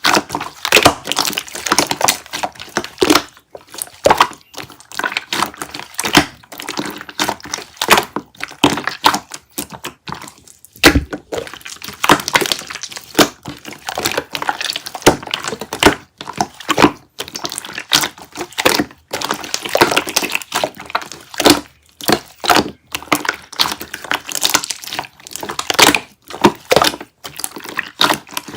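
Slime being squeezed and kneaded by hand: a dense, irregular run of wet clicks, pops and crackles.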